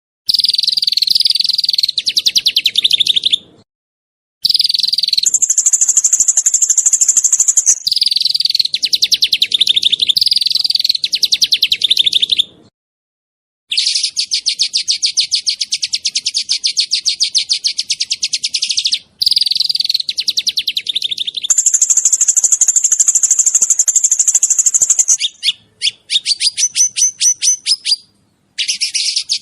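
Small songbird singing rapid, tightly packed trills of high notes, the fast 'shooting' song, in bursts of a few seconds. Some bursts are pitched higher than others, and the bursts are broken by sudden short silences.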